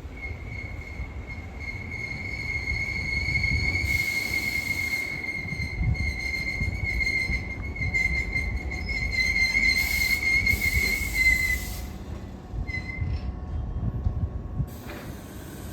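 Tobu 8000 series electric commuter train pulling into the station: a steady high squeal over the rumble of the wheels, which dips slightly and stops about twelve seconds in. Several short bursts of air hiss come and go.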